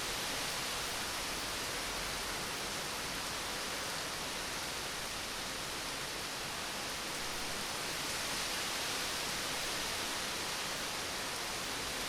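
Steady rain falling, an even hiss with no thunder in it.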